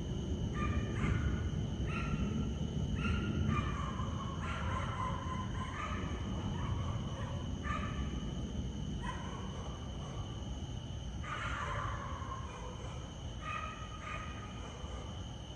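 Low rumble of thunder fading away, while a dog barks at irregular intervals over a steady high-pitched hum.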